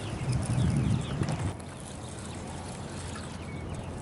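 Open-water ambience around a kayak: a low rumble for about the first second and a half, then a steady, quieter outdoor hiss with a few faint high chirps.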